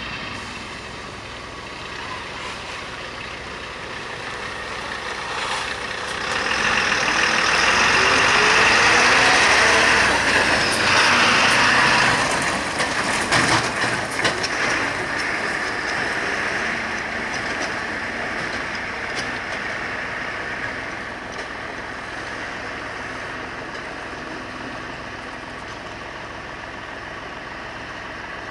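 Fire engine running at idle, with a long loud hiss about a quarter of the way in, followed by a cluster of knocks and clatters before it settles back to a steady run.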